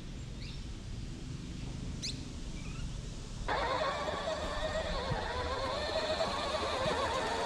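Low rumbling noise with a few faint chirps, then, about three and a half seconds in, a radio-controlled truck's electric motor starts whining suddenly and holds a steady, slightly wavering pitch.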